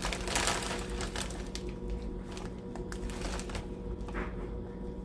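Faint crinkling and rustling of plastic potato chip bags being handled, mostly in the first second or two, over a steady low hum.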